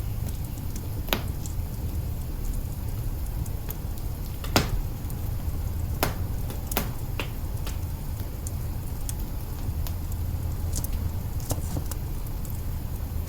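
Wood fire burning in an open hearth: a steady low rumble with scattered sharp crackles and pops, the loudest about four and a half seconds in.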